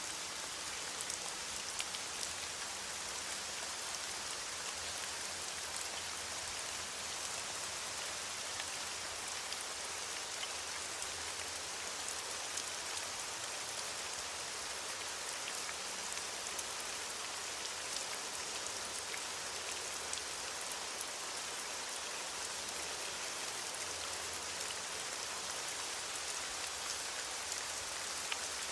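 Steady rain falling on leaves, an even hiss with many small drop patters throughout.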